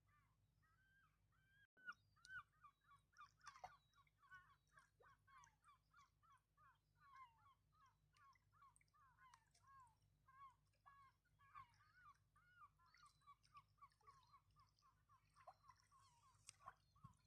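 Faint bird calls: a fast, continuous run of short calls sliding downward in pitch, about two or three a second, over a steady low background hum.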